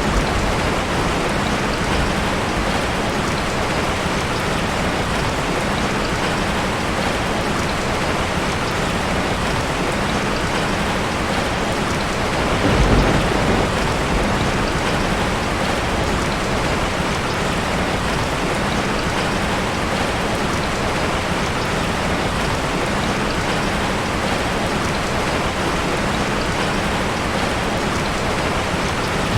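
Heavy rain falling steadily on a tin roof, with a brief low rumble of thunder about halfway through.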